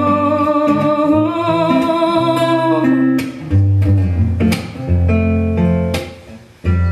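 Live ballad performance: a singer holds a long note with vibrato over guitar-led band accompaniment. After about three seconds the voice drops out and the instruments carry on alone, thinning out almost to nothing briefly near the end before the band comes back in.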